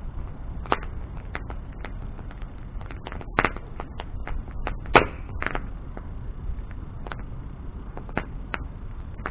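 Wood bonfire crackling: irregular sharp pops and snaps, the loudest about five seconds in, over a steady low rumble.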